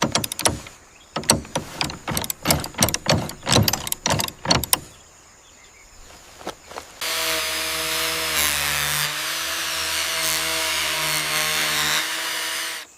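A quick run of sharp knocks and taps for about five seconds, then, after a short pause, a power tool running steadily for about six seconds with a hissing whine before cutting off.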